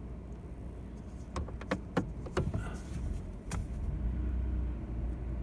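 A vehicle's engine running low and steady as it drives slowly, growing a little louder about halfway through, with several sharp clicks in the first half.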